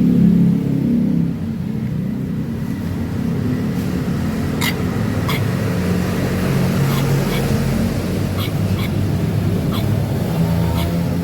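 A vehicle engine running steadily, louder for the first second or so. From about halfway through, a scattering of sharp clicks sounds over it.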